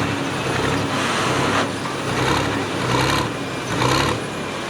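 Engine of a pulling vehicle running, with a pulse about once a second.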